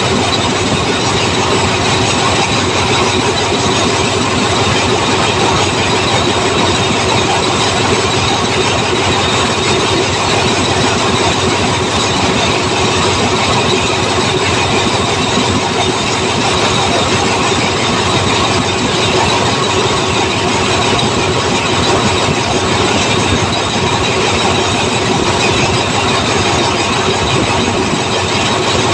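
A train rolling steadily past: continuous loud noise of steel wheels on rail, with a faint high-pitched wheel squeal running through it.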